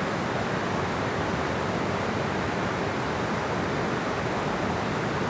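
Steady rushing of water flowing at a dam, an even noise without breaks.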